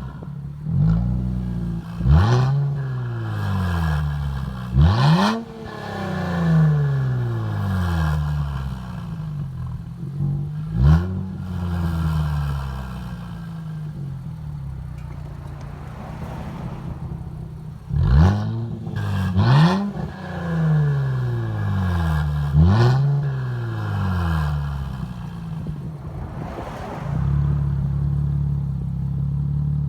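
The 3.0-litre twin-turbo V6 of a 2017 Infiniti Q60 Red Sport 400 is blipped again and again through a NISMO sport exhaust with no mufflers. Each quick rev sinks slowly back toward idle, and there is a steadier idle stretch in the middle.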